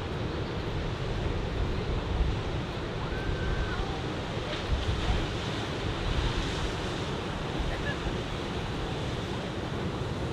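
Surf from typhoon swell breaking and washing onto a sandy beach, a steady rushing noise, with wind buffeting the microphone.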